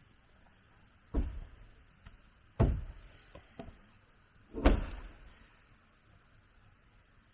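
Wood being struck: three heavy thuds a second or two apart, with a few lighter knocks between them.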